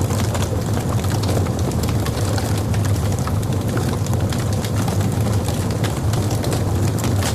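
Logs burning in a fireplace: a steady low rumble of the fire under frequent small, sharp crackles and pops.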